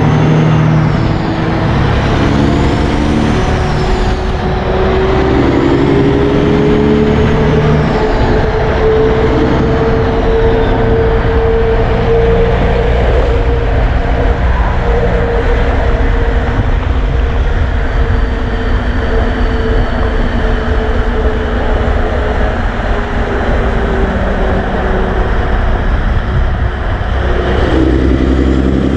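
Road traffic with heavy trucks passing: diesel engines running loud and steady, with a sustained whine held for most of the time.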